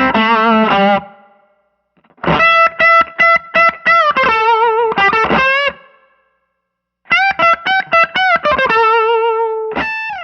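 Electric guitar played through an overdriven tube amp: three short lead phrases of quick picked notes with string bends and vibrato, separated by about a second of silence each, the last ending on a held, wavering note.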